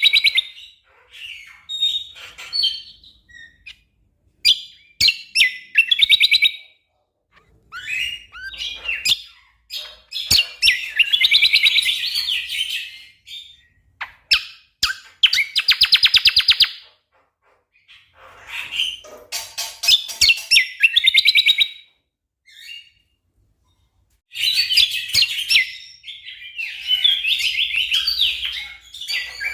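Cucak kombo songbird singing in bursts of rapid, dense trilled and clicking phrases, each a second or two long, with short pauses between them.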